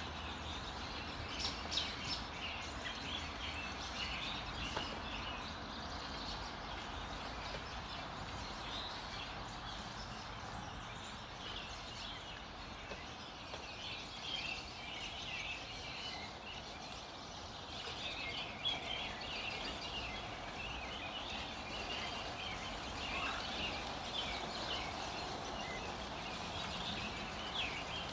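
Dawn chorus of many small birds chirping and singing at once, calls overlapping without pause, over a steady background hiss.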